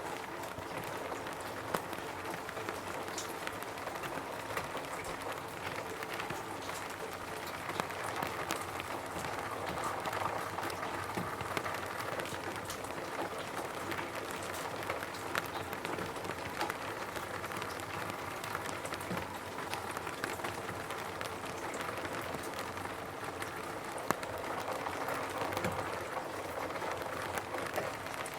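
Rain falling on a roof: a steady patter with many separate drops ticking at irregular moments.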